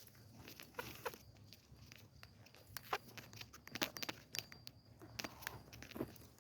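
Faint footsteps on a path, a soft crunching step about every second.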